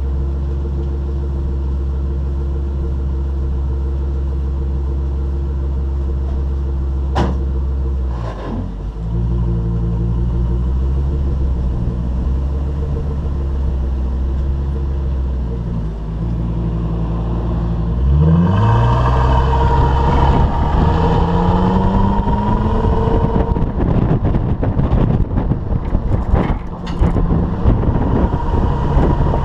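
Stock-exhaust Ford 6.8-litre V10 idling steadily. About eighteen seconds in it revs and accelerates away, its pitch rising for several seconds, while a rush of wind and road noise builds over it.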